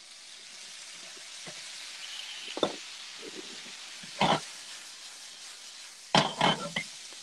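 Pork belly and daikon stir-fry sizzling steadily in a hot pan as mirin goes in, with a few short clacks of utensils against the pan.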